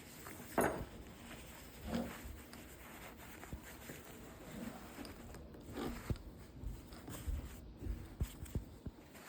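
Brief rasping, rubbing handling sounds, three or so, and a series of short light knocks later on, as ties are worked around a book to clamp its freshly glued leather.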